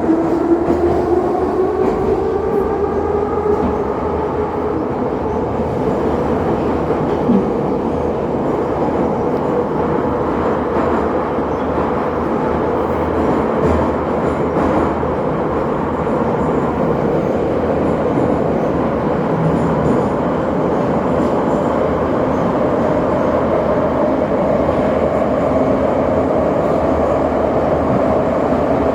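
Electric suburban train running, with a steady rumble of wheels on rails and a motor whine that rises in pitch over the first few seconds as the train picks up speed, holds steady, then climbs again near the end.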